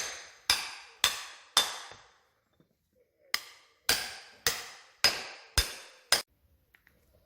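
Hammer blows on metal, each ringing briefly: four strikes about two a second, a pause of roughly a second and a half, then six more at the same pace.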